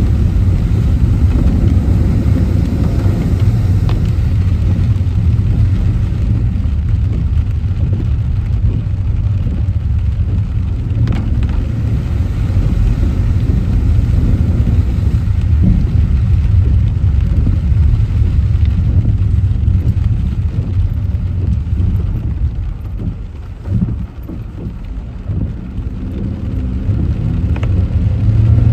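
A car driving in rain on wet streets: a steady, deep rumble of road and engine noise with a hiss of rain. The rumble eases for a few seconds about 23 seconds in, then picks up again.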